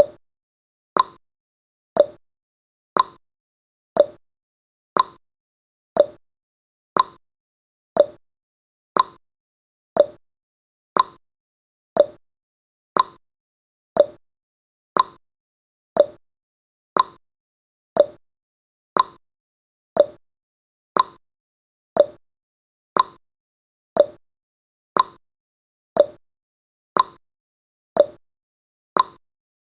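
A countdown timer's ticking sound effect: one short, clock-like tick each second, each dying away quickly.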